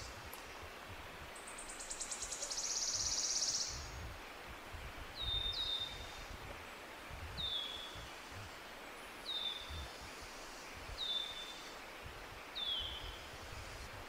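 Songbirds calling: a buzzy, rapid trill lasting a couple of seconds, then a series of short whistled chirps that each drop in pitch, about every two seconds.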